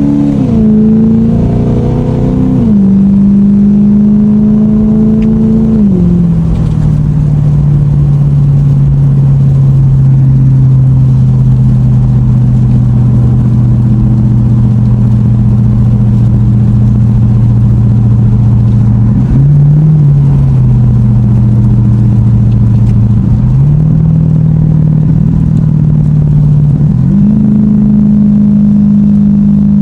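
Lexus car engine running while driving: its pitch climbs and then drops in steps about 3 and 6 seconds in, holds steady for a long stretch, and rises again in steps near the end, over a steady rush of road noise.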